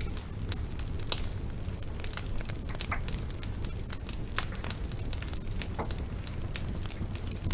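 Wood fire in a fireplace crackling, with quick irregular pops and snaps over the steady low rumble of the flames; the sharpest pop comes about a second in.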